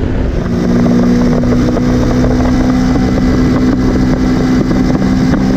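Kawasaki Versys X 300's 296 cc parallel-twin engine running at a steady cruising speed on the road, its note settling and holding about half a second in, with wind rumbling on the microphone.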